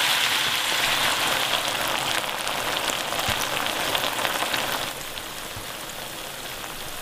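Diced onion and pork in black bean sauce sizzling as they are stir-fried in a nonstick wok with wooden spatulas: a steady high hiss with a few light scrapes, dropping quieter about five seconds in.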